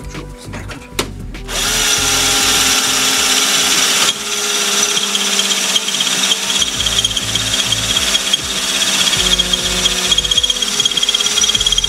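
Electric drill drilling through metal. It starts about a second and a half in and runs steadily, with a steady high whine from about eight seconds.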